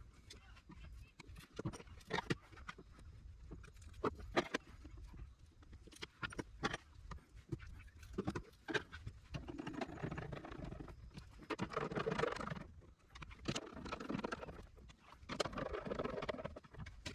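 Irregular clicks, taps and knocks of parts and tools being handled on a workbench, with stretches of scraping and rustling about halfway through and again near the end.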